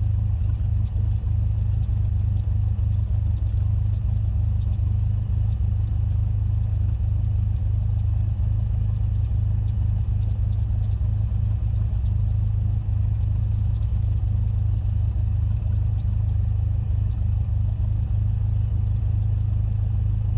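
Cessna 172's piston engine and propeller running steadily, a constant low drone heard from inside the cockpit.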